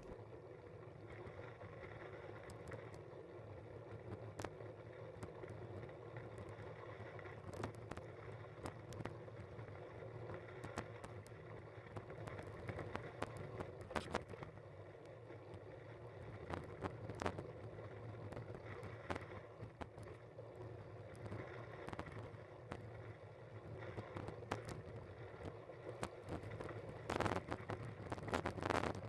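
Steady rumble of a bike in motion, with scattered rattles and knocks from the ride and a cluster of louder knocks near the end.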